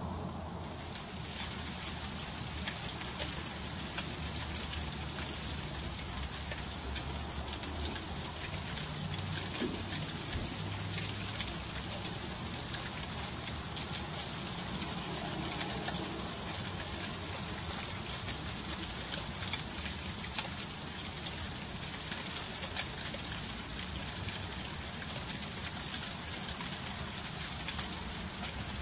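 Freezing rain falling during an ice storm: a dense, steady patter of fine icy ticks on surfaces, with a faint low hum underneath.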